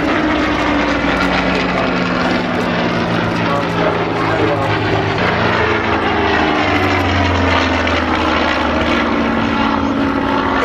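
Supermarine Spitfire's piston engine running as the propeller fighter flies past, its pitch slowly falling.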